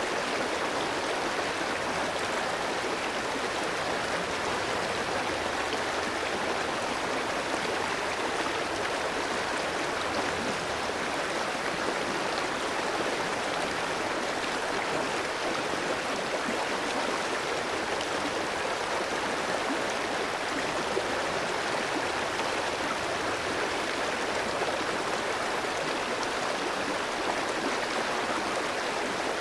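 Clear mountain stream flowing over rocks: a steady, even rush of water.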